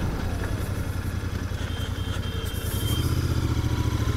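Royal Enfield Continental GT 650's 648 cc parallel-twin engine running at low revs through its stock exhaust, a steady low thrum of exhaust pulses that grows a little louder about three seconds in.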